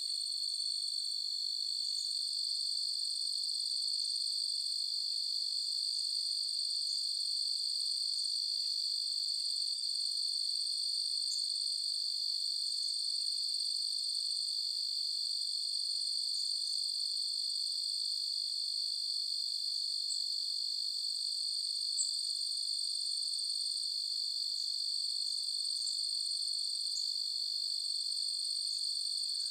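Night chorus of crickets trilling steadily in high, unbroken tones, with short higher chirps scattered through it and one faint click about 22 seconds in.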